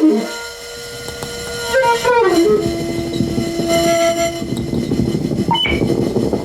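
Saxophones playing long, steady held notes that slide down between pitches, over a dense, rough low drone from live electronics that thickens about two seconds in.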